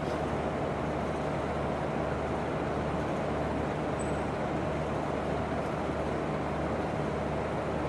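Steady background room noise: a low hum and an even hiss, with a faint constant tone held throughout and no voice.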